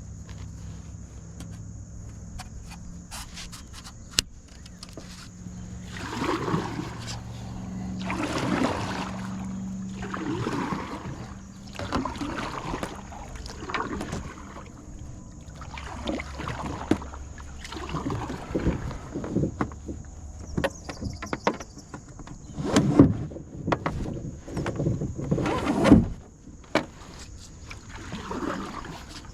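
Kayak paddle strokes dipping and splashing in river water, roughly one every two seconds. A low hum fades out in the first third, and there are two sharp, louder knocks near the end.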